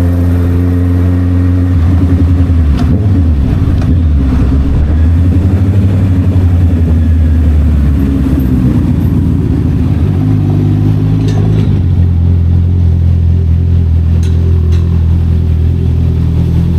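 Honda CB650R inline-four engine running through an SC Project exhaust. Its note holds steady at first, shifts up and down in pitch from about two seconds in until about twelve seconds, then settles back to a steady note.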